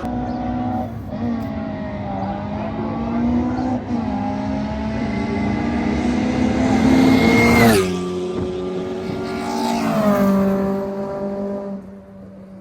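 Drag racing cars accelerating hard down the strip, the engine note climbing and then dropping at each gear change through several shifts, fading near the end as the run finishes.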